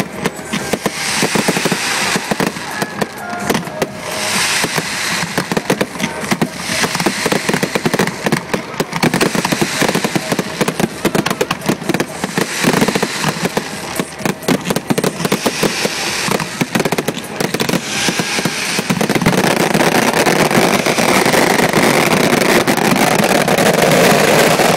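Fireworks display finale: rapid, overlapping bangs and crackles of exploding shells that thicken into a dense, continuous barrage in the last few seconds.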